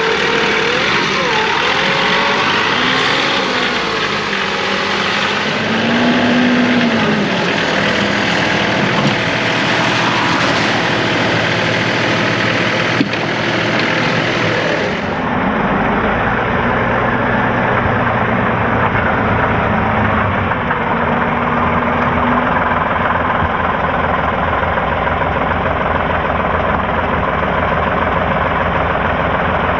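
John Deere 2038R compact tractor's three-cylinder diesel engine running as it pushes snow, its pitch rising and falling for the first half. About halfway the sound changes abruptly and settles into steadier running.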